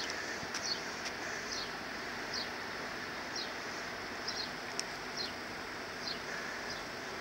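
A small bird chirping: short, high, falling chirps at uneven intervals over a steady background hiss.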